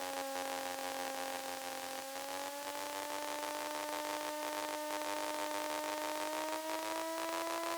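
Kitfox light aircraft's engine and propeller droning steadily in the cockpit over a hiss of airflow; the pitch dips slightly, then climbs slowly as the engine speed changes.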